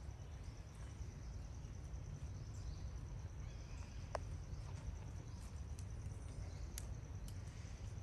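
Quiet outdoor ambience: a steady, high, pulsing insect chirring over a low rumble, with a few sharp clicks, the clearest about four seconds in.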